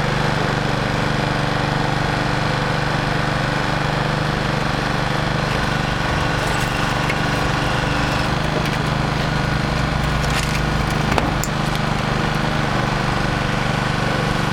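A vehicle engine idling steadily close by, with one brief knock about eleven seconds in.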